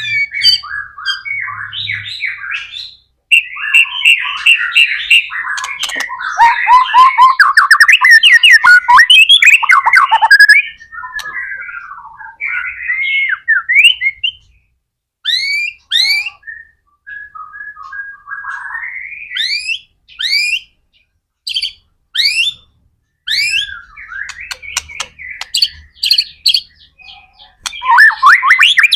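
White-rumped shama (murai batu) singing a loud, varied song. The first half is dense, rapid chattering phrases. Later come single sharp rising whistles with short pauses between them, and a burst of dense song returns near the end.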